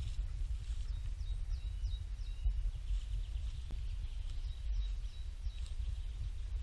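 Small birds chirping in quick runs of short high notes, one run about a second in and another near the end, over a steady low rumble that is the loudest thing heard.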